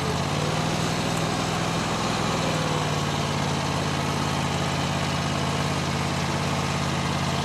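Stand-on mini skid steer's engine running steadily with an even hum, working under a pallet load beyond its rated lift capacity.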